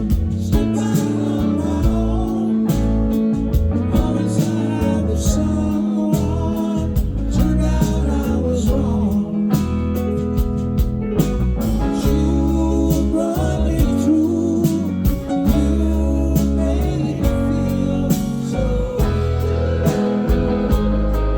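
Live band playing a song: a sung lead vocal over guitars, with a steady drum beat.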